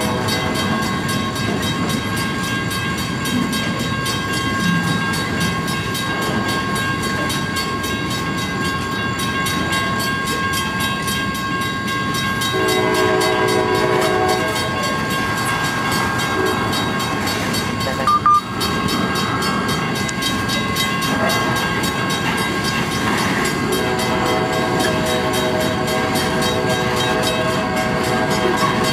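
Loaded flatcars of a freight train rolling past, a continuous rumble and rattle of wheels on rail with a steady high whine over it. A chord of steady lower tones sounds twice, about 13 seconds in and again from about 24 seconds on, and a brief sharp click comes about 18 seconds in.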